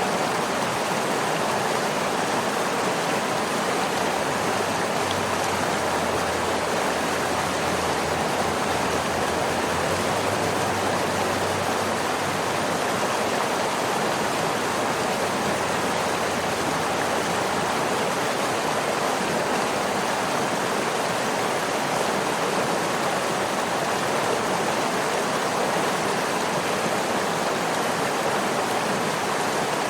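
Waterfall: falling water rushing in a steady, unbroken roar of splashing.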